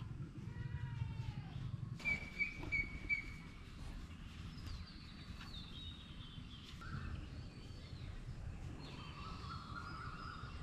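Small birds chirping and calling in several short whistled phrases over a steady low background rumble.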